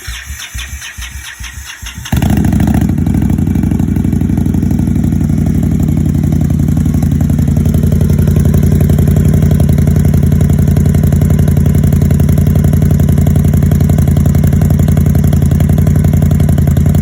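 Indian Scout Sixty's V-twin, fitted with Vance & Hines Grenade mufflers, turning over on the electric starter with rhythmic pulses, catching suddenly about two seconds in, then idling steadily on a cold start.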